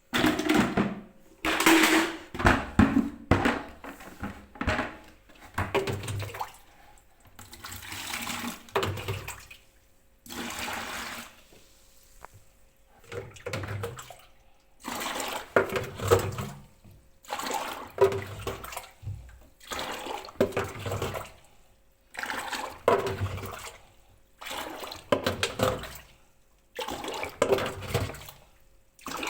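Dirty water being scooped out by hand with a small tin and poured into a bucket, splash after splash about every two seconds: bailing the standing water from a washer dryer that will not drain.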